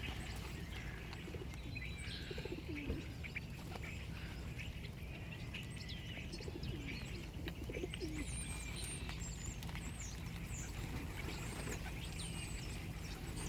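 A flock of birds calling while they feed: many short, high chirps scattered throughout, with low cooing now and then, over a steady low rumble.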